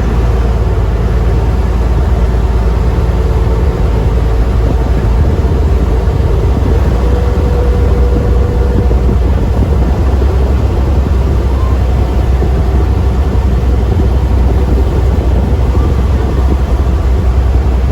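Cross-river ferry's engine running steadily: a loud, even, low drone heard on board.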